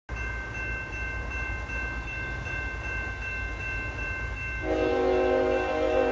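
A diesel locomotive's air horn blows a steady chord, coming in loud about four and a half seconds in, over a low rumble and steady high-pitched tones.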